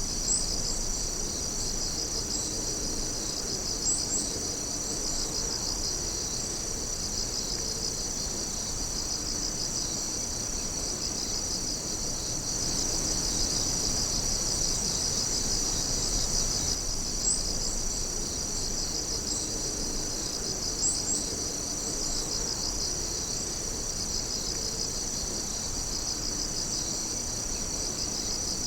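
Steady night chorus of crickets and other insects: many overlapping high, rapidly pulsing trills that keep on without a break. A few brief sharp clicks stand out about four times.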